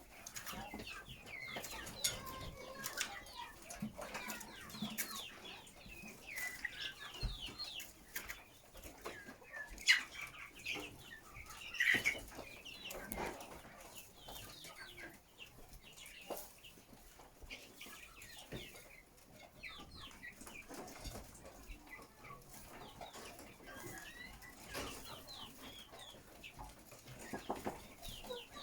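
Chickens clucking, with wing flapping and scattered sharp clicks; the loudest click comes about ten seconds in.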